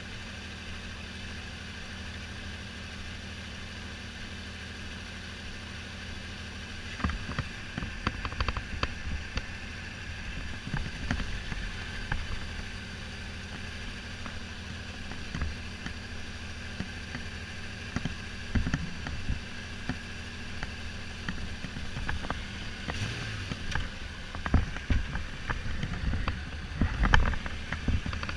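Kawasaki Z1300 inline-six motorcycle engine running while not firing on all cylinders, a misfire the owner puts down to the carburettors or spark plugs. From about seven seconds in, irregular low thumps and buffeting come over it.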